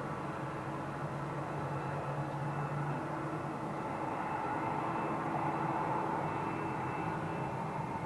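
Boeing 767-300 freighter's jet engines running steadily with a high whine, slowly growing louder.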